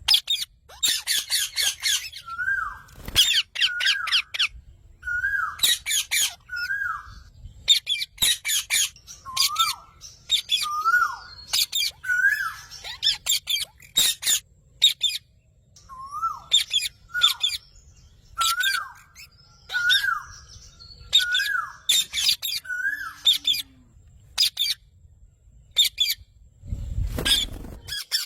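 Parrot squawking again and again in harsh calls, with a short whistled note that rises and then drops coming between them about every one to two seconds. A brief low noise near the end.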